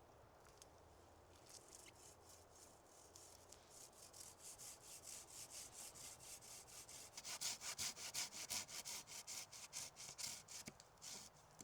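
Hand saw cutting through wood in quick, even strokes, about four a second. The strokes grow louder towards the middle and stop shortly before the end.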